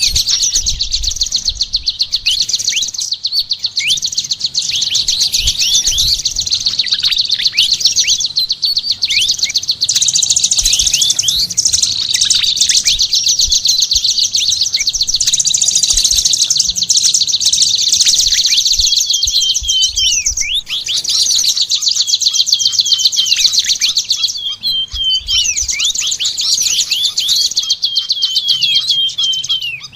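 Songbird singing a fast, continuous, chattering song of high trills and quick downward-slurred notes, with only brief pauses.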